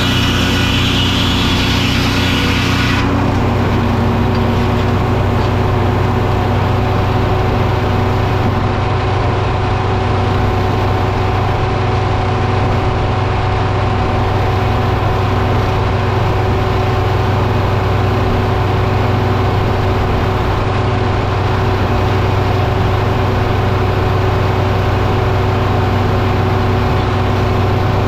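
Engine running steadily at a constant speed, with a loud hiss over it that stops about three seconds in.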